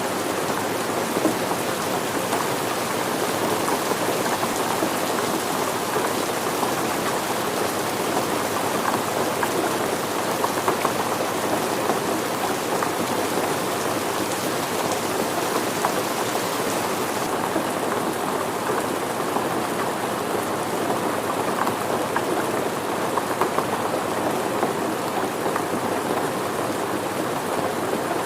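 Steady rain falling on surfaces, a dense even patter with many small drop ticks; the hiss of the higher drops eases a little about two thirds of the way through.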